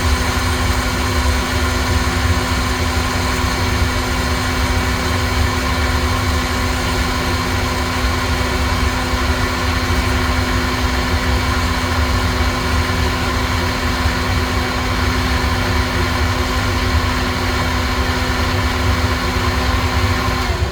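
Electric blower of a home coffee-roasting setup running steadily with a loud hum and a whine, cutting off just before the end.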